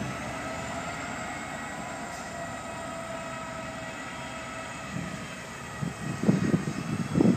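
Diesel freight locomotive working under power as it hauls a train of hopper cars, a steady drone with several held tones that sag slightly in pitch. From about six seconds in, irregular loud low rumbles come in over it and are the loudest sound.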